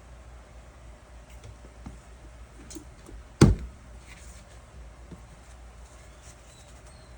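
A single sharp knock about halfway through, with faint scattered clicks and handling noises around it over a low steady hum.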